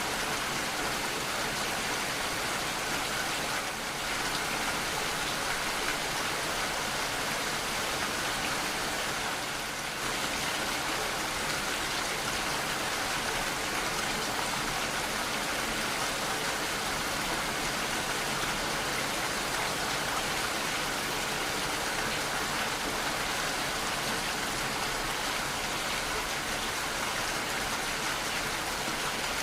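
Steady heavy rainfall, a dense even hiss of drops hitting surfaces.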